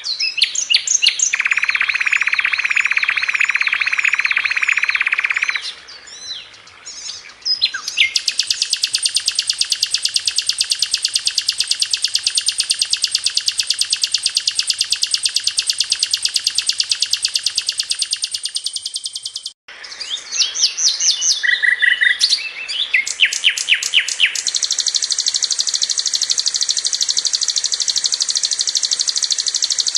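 Sikatan londo flycatcher singing a loud, very fast, tight stream of high repeated notes, with a sudden short break about two-thirds of the way through before the song picks up again.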